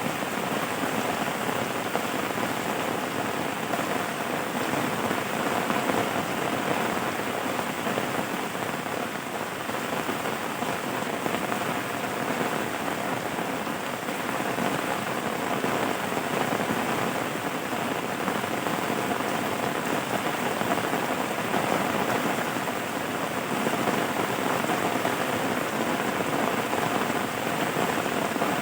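Steady rain falling, an even hiss of many drops that neither builds nor breaks.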